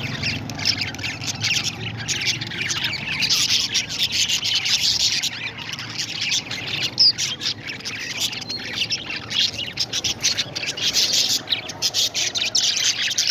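Many pet parrots chirping and chattering together, a dense steady stream of short high calls with a few louder squawks.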